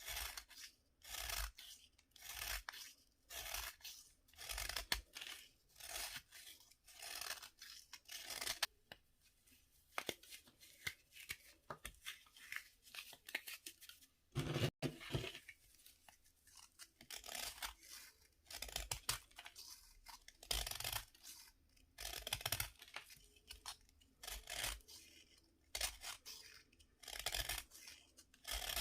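A crumbly bath fizzer being scraped and cut in repeated short, dry strokes. One louder crunch comes about halfway through.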